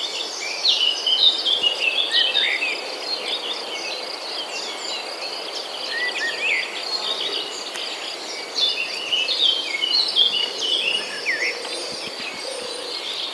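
Several songbirds chirping and whistling in quick, overlapping phrases over a steady high insect drone, as of cicadas or crickets. The birdsong is busiest near the start and again toward the end.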